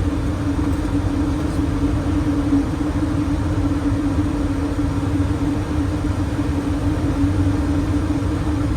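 Steady flight-deck noise of a Boeing 737NG in flight on approach: a constant rush of air and low rumble, with an unchanging mid-pitched hum.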